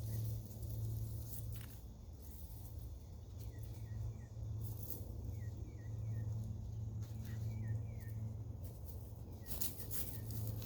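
Garden ambience: small birds chirping in a few short runs over a steady low hum, with a few soft rustles or scrapes.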